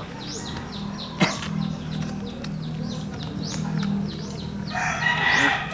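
A small bird chirping over and over in short, falling high notes, about two or three a second. There is one sharp click about a second in, and near the end a rooster starts crowing.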